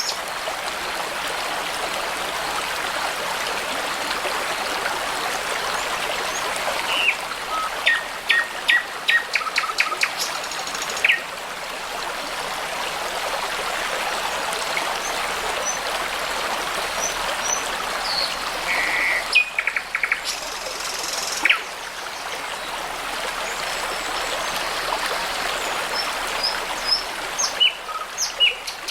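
Shallow brook babbling steadily throughout, with songbirds singing over it in short runs of quick notes: about seven to eleven seconds in, again around twenty seconds, and near the end.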